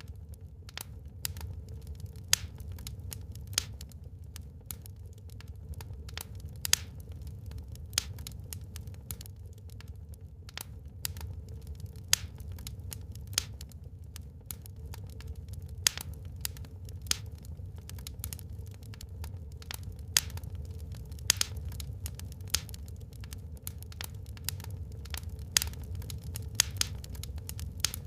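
Wood fire burning in a fireplace, crackling: irregular sharp pops and snaps, several a second, over a steady low rumble.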